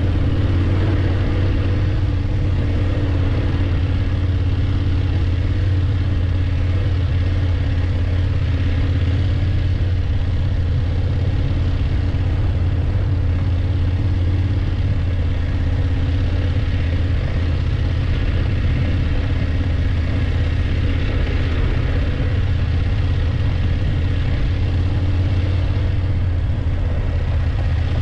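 BMW F850GS motorcycle's parallel-twin engine running steadily on the move, with a haze of wind and road noise over it.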